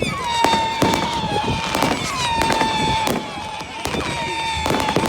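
Fireworks going off: a run of sharp bangs and crackles, several a second. Under them a high steady whistle-like tone restarts about once a second, each time sliding down briefly before holding.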